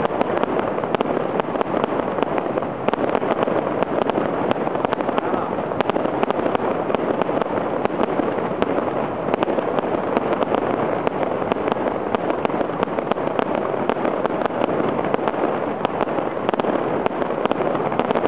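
Fireworks display going off in a rapid, unbroken barrage: a dense steady wash of bursts and crackling, with many sharp pops throughout.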